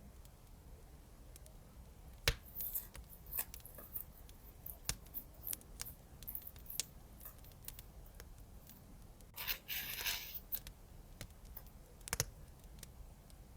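Scissors snipping paper craft materials: a run of sharp snips and clicks from about two to seven seconds in, a second-long rustling cut around ten seconds in, and one more snip near the end.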